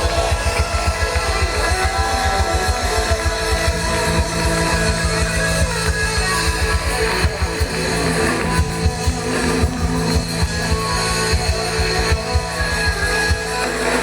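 Live rock band playing an instrumental stretch with guitar over a fast, steady drum and bass beat.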